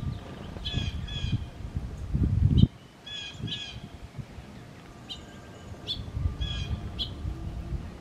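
Birds calling: short, harsh calls in pairs, a few times, with sharp high chip notes later on. Under them is a low rumbling noise that is loudest just before it cuts off suddenly about two and a half seconds in.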